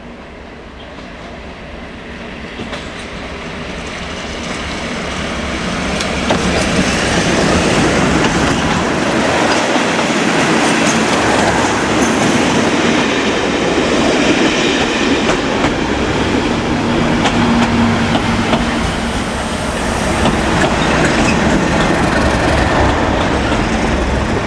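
Class 37 diesel-electric locomotives with a test train, their English Electric V12 engines working. The sound grows steadily louder over the first several seconds as the train approaches, then stays loud as the locomotives and train run past with rail and wheel noise.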